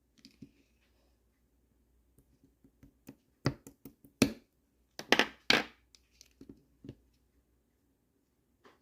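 Translucent slime worked by hand, giving irregular sharp clicks and pops, the loudest bunched together in the middle.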